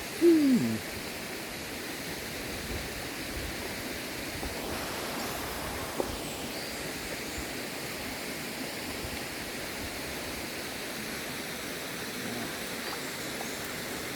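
Steady rush of Argyle Waterfall pouring into its plunge pool, light in the dry season. A short vocal sound comes right at the start, and a single small click about six seconds in.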